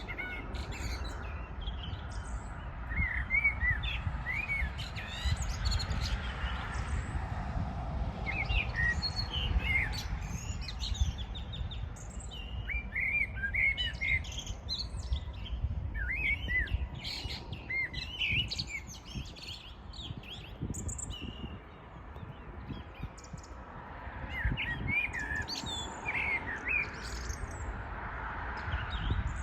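Several songbirds chirping and singing in a morning chorus: many short, quick chirps and trills overlapping throughout. A low rumble runs underneath.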